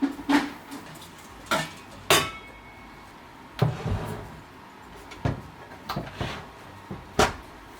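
Dishes and glassware being handled and set down: a series of about seven separate clinks and knocks. The one about two seconds in leaves a brief ringing tone.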